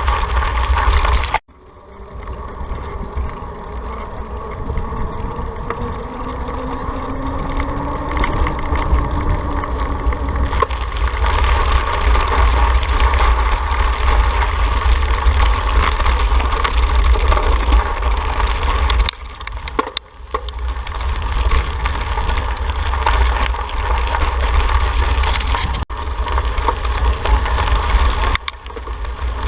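Wind rushing over a bicycle-mounted camera's microphone while riding, with a heavy low rumble and road noise. It cuts out abruptly about a second and a half in, then builds back up, with a couple of brief lulls later on.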